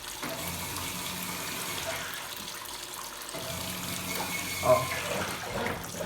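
Washing machine tub filling with water, a steady running-water noise over a low hum from the machine. The hum stops for a moment about halfway through and starts again, and there is a short knock near the end.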